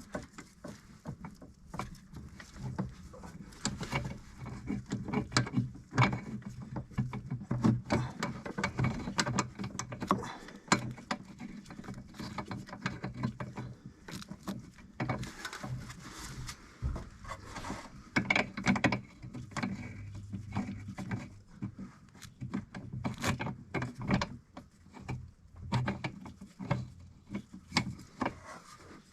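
Irregular small clicks, taps and rustles of hands and metal fittings as a rubber A/C hose is worked onto the receiver-drier under the car, over a low steady hum.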